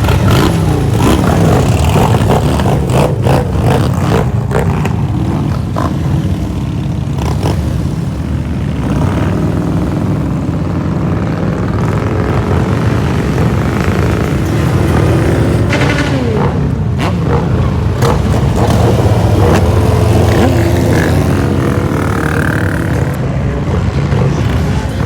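A group of motorcycle engines running and revving, a deep steady rumble with engine pitch rising and falling several times, and scattered sharp clicks and knocks.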